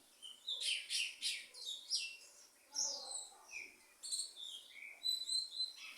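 Songbirds chirping and singing in quick short phrases, with many brief high notes and down-sliding whistles overlapping.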